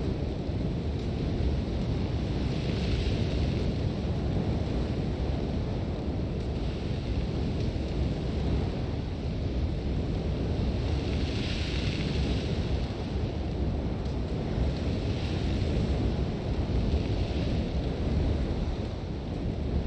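Sandstorm wind blowing hard and steadily with a deep rush, with windblown sand hissing in swells every few seconds.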